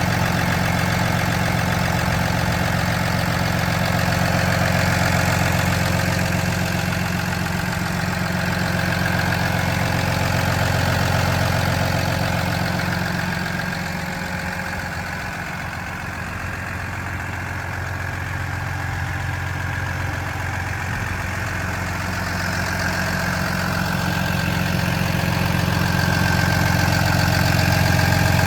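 PACCAR PX-7 inline-six diesel engine of a Peterbilt 337 truck idling steadily, fading somewhat for a few seconds midway and then growing louder again.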